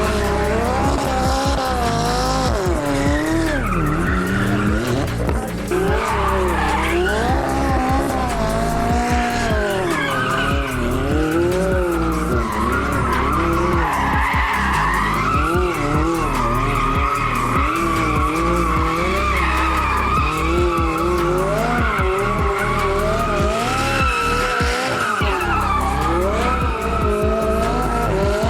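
Car drifting: tyres squealing steadily while the engine revs rise and fall over and over as the throttle is worked through the slides.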